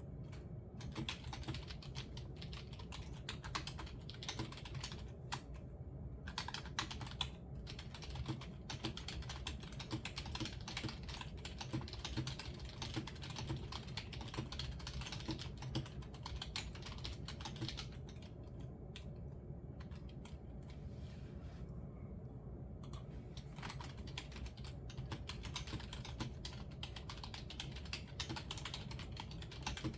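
Computer keyboard typing in quick, uneven runs of keystrokes, easing off for a few seconds past the middle, over a steady low hum.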